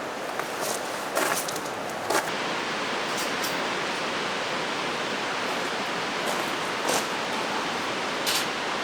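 Steady rush of a mountain stream flowing, with a few light clicks or knocks scattered through it.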